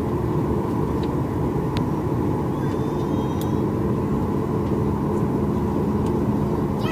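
Steady cabin rumble and hum inside a Boeing 737 MAX 8 airliner, with a few faint clicks over it. A steadier low hum joins about halfway through.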